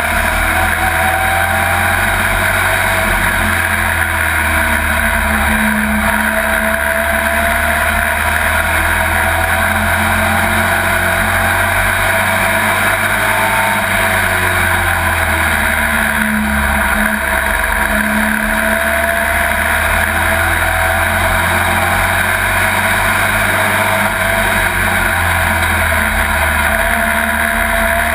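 Pro Truck race truck's engine running hard at racing speed, heard from inside the cab, loud and continuous. Its pitch rises and falls slightly as the driver comes on and off the throttle.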